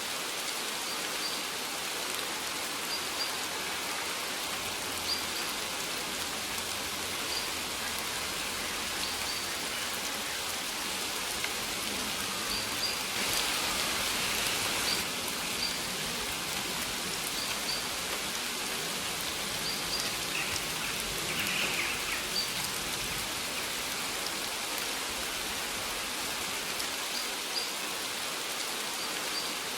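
Steady rain falling, with short high bird chirps repeating every second or so.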